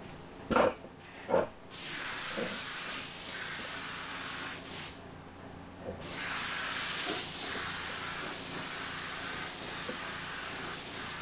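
Automotive paint spray gun spraying base coat in long steady passes of air hiss, with a pause in the middle. Two short, loud bursts from the gun come first.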